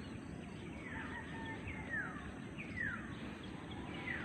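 A bird calling outdoors: a repeated falling whistled note, about one a second.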